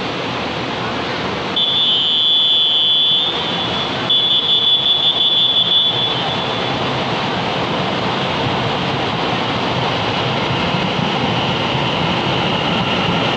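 A train running through the station with a steady rumble. A high-pitched signal tone sounds twice over it: first one held note of under two seconds, then a pulsing one of about the same length.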